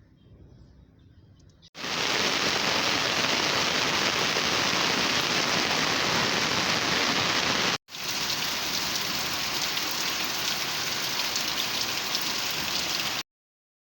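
Steady rain falling, a dense even hiss that comes in suddenly about two seconds in. It breaks off for an instant about eight seconds in and stops abruptly near the end.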